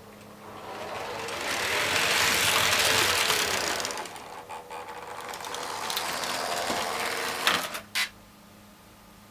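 H0-scale model train running past, its small electric motor and wheels on the track making a rattling, whirring sound that swells to its loudest a couple of seconds in, then eases off. It ends with two sharp clicks, followed by a low steady hum.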